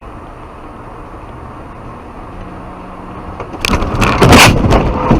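Steady road and engine rumble of a moving car, then about three and a half seconds in a sudden loud collision: a run of hard crunching impacts, loudest near the end.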